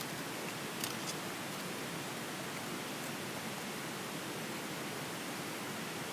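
Steady, even hiss of background noise, with two faint clicks about a second in.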